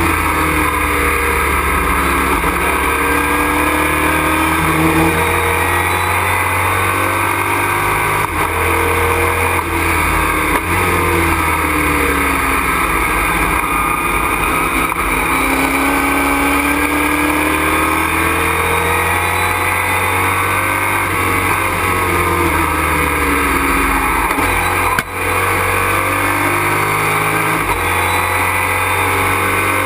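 Race truck engine heard from inside the cockpit at racing speed, its revs rising and falling through gear changes and corners. There is a brief lift near the end.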